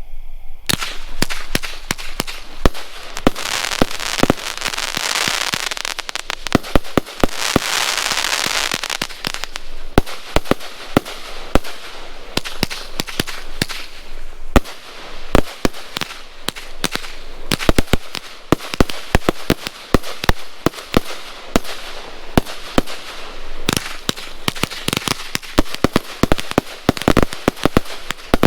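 A Pyromax Chopsuey 168-shot compound firework cake firing: a rapid, nearly continuous string of sharp bangs and pops from its tubes, with a dense hissing wash about four to nine seconds in.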